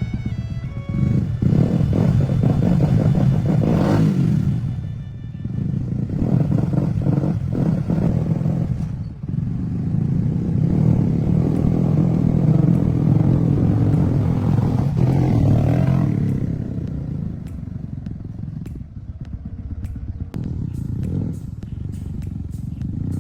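Motorcycle engine running, its revs swelling and dropping back several times.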